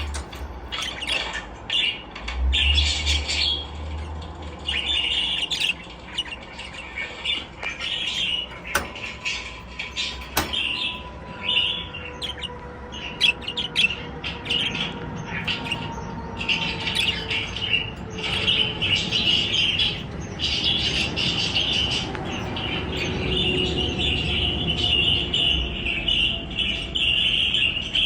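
Budgerigars chirping and chattering, a busy run of short, rapid calls that becomes a continuous warble near the end, with a couple of sharp clicks partway through.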